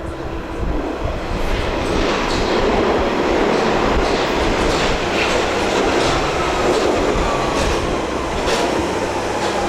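London Underground train running on the rails, getting louder over the first couple of seconds, with rumbling and scattered wheel clacks. In the last few seconds a whine falls steadily in pitch as the train slows.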